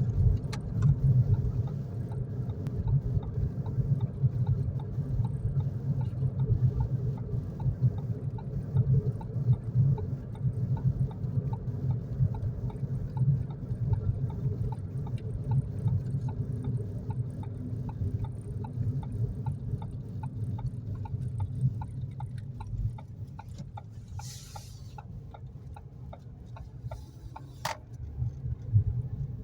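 Vehicle engine idling with a steady low rumble and a faint, regular ticking about two or three times a second. A short hiss comes near the end, then a single sharp click.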